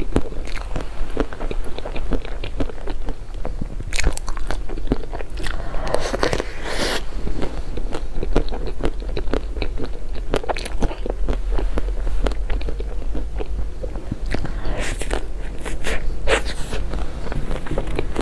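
Close-miked eating: a person biting and chewing food, many small mouth clicks with louder bites about four seconds in, around six to seven seconds and again around fifteen to seventeen seconds. A steady low hum runs underneath.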